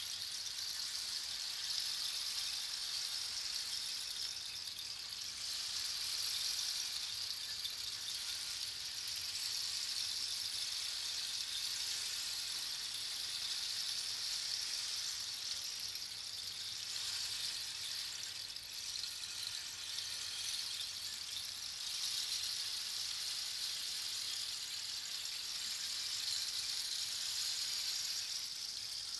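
Rain stick: a continuous hiss of tiny pebbles or beads trickling through the tube, like falling rain, swelling and easing every few seconds.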